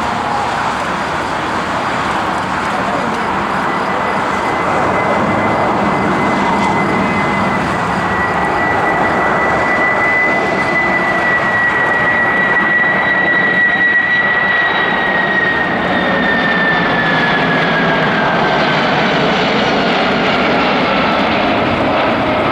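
A cargo aircraft's engines rushing loudly as it passes close by. A high engine whine holds steady, then slides down in pitch over the last third as the aircraft goes past.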